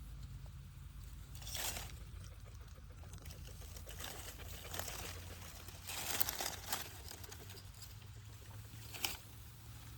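Dry leaves rustling and crackling in a few short bursts as a fox moves or plays in them, over a low steady rumble.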